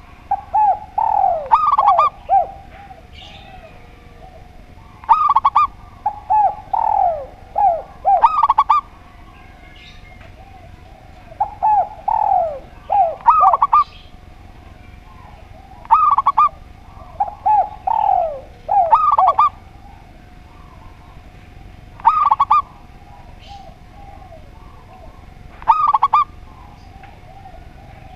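Doves cooing, a spotted dove and a zebra dove, in phrases of quick notes that come every few seconds with short pauses between, some notes sliding down in pitch.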